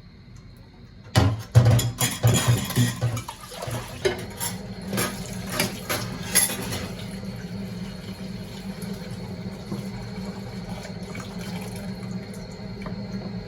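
Dishes and cutlery clattering with water running, starting suddenly about a second in and easing after about seven seconds, then a steady low hum.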